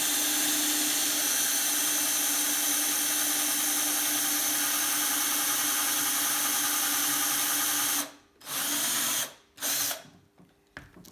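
Electric drill running steadily for about eight seconds while drilling a lightening hole in a bicycle part, then stopping abruptly, followed by two short bursts of the drill.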